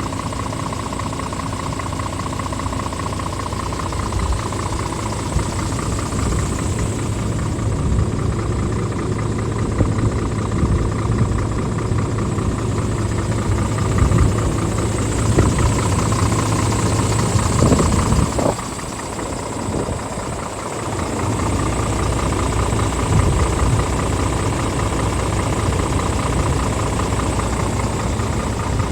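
Scania R450 truck's 13-litre straight-six diesel engine running at idle. It grows louder with short rising sweeps around two-thirds of the way through, drops suddenly in level, and then settles back to a steady idle.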